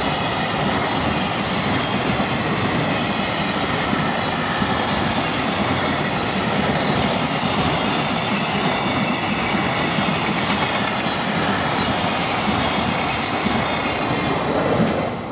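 Electric train passing close by, with steady rail and wheel noise and some clatter over the rail joints.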